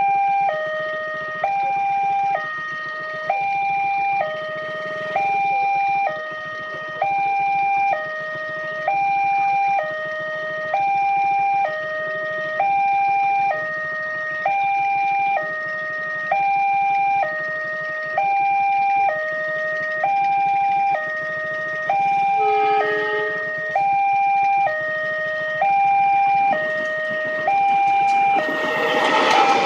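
Railway level-crossing warning alarm sounding a steady two-tone hi-lo pattern, the higher and lower tones alternating about once a second. Near the end a loud rushing noise builds up over it.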